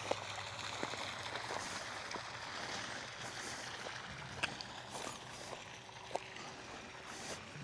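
Faint steady hiss with scattered light clicks and ticks, and a low hum that fades out about halfway through.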